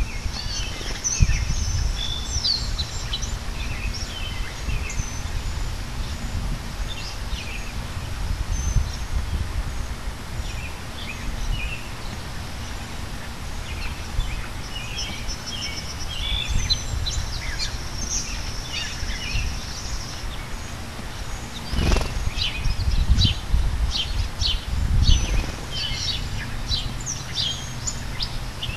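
Small backyard birds chirping and calling, with a quick run of sharp chirps in the last third. A low rumble runs underneath, swelling briefly twice in the later part.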